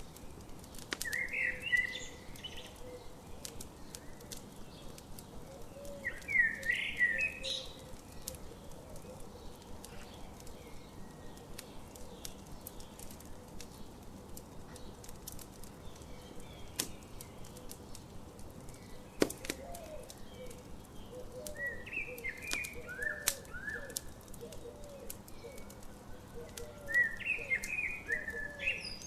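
Campfire crackling, with frequent sharp pops and snaps. A songbird sings four short phrases, and a run of lower chirps is heard in the second half.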